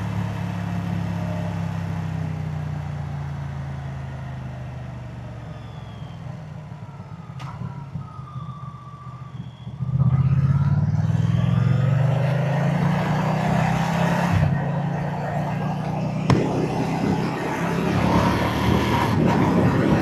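Moto Guzzi V-twin motorcycle engine and exhaust heard while riding: it winds down off the throttle and gets quieter for about ten seconds, then opens up sharply about halfway and pulls hard again, its note rising.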